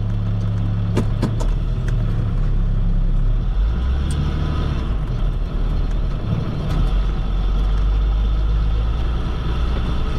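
Box truck's engine and road noise heard inside the cab while driving. The engine note drops lower about a third of the way in, and there are a couple of light clicks about a second in.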